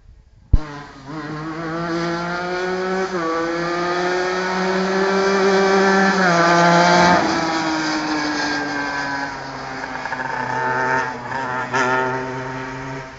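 Honda NSR 125 two-stroke single-cylinder engine of a shifter go-kart running hard at high revs. The pitch climbs and then drops sharply twice, at gear changes, then falls away and picks up briefly near the end.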